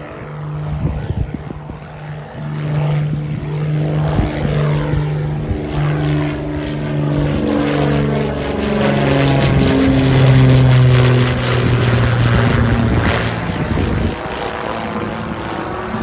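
Piper Aerostar twin-engine piston propeller plane on its takeoff climb passing close by. The propeller drone builds to its loudest about ten seconds in and drops in pitch as it goes past. The low hum then falls away sharply near the end.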